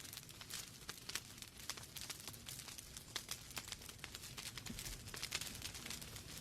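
Wood fire burning in a fireplace: logs crackling with frequent irregular sharp pops and ticks over a soft hiss and low rumble of the flames.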